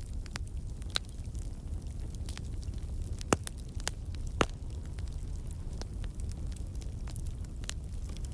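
Wood campfire burning: a steady low rumble of flame with scattered crackles and snaps from the logs, and two louder pops near the middle. The crackling is sap and water in the wood turning to steam and escaping.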